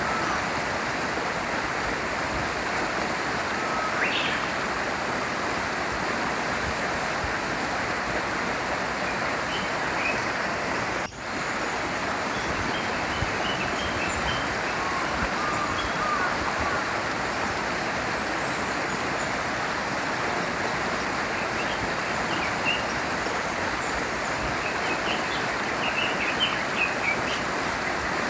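A small stream flowing steadily, with scattered faint bird chirps over it, more of them near the end. The water sound drops out for an instant about a third of the way in.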